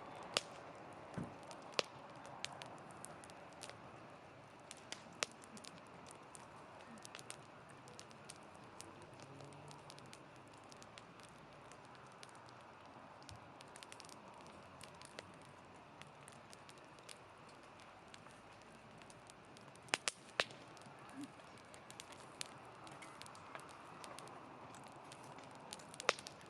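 Wood fire crackling, with a steady low hiss and scattered sharp pops, the loudest a close pair of pops about twenty seconds in.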